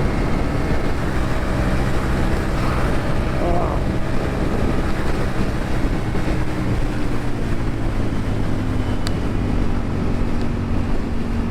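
Ducati Streetfighter V4 superbike engine running under way at steady cruising speed, with wind noise rushing over the helmet microphone. The engine note climbs slightly near the end.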